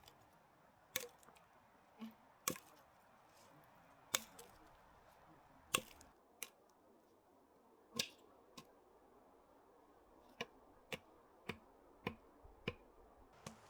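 A series of short, sharp snips or cracks, about fifteen in all, spaced irregularly about a second apart over a quiet background.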